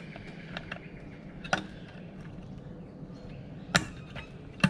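A few sharp knocks and clicks from native bee hive boxes being handled and fitted together, about five in all, the two loudest near the end.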